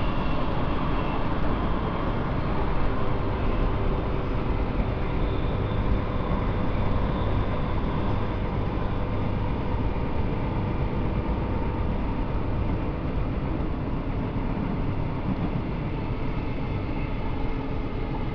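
Cabin running noise of a Queensland Rail electric suburban train at speed: a steady rumble with a faint steady whine.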